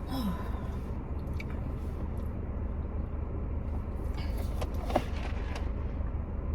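Steady low hum with a few light clicks and handling noises, one sharper click about five seconds in.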